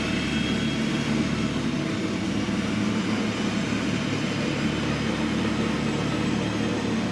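Heavy road-building machine's diesel engine running steadily under load, a constant low drone with mechanical rumble.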